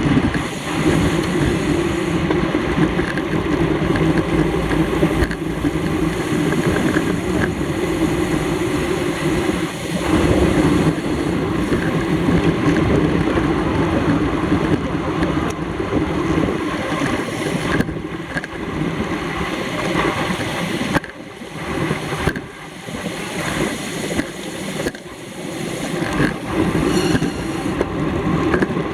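Wind rushing and buffeting over the microphone of a camera riding along on a bicycle in a road race, rising and falling with the airflow and easing off for stretches in the last third.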